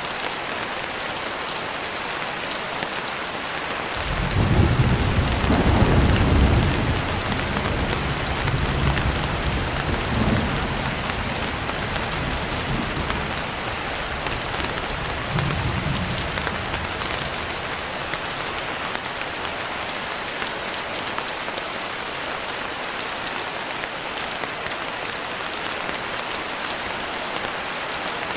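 Steady rain with a roll of thunder that breaks in suddenly about four seconds in, loudest for the next few seconds, then rumbles on in waves and fades out around the middle.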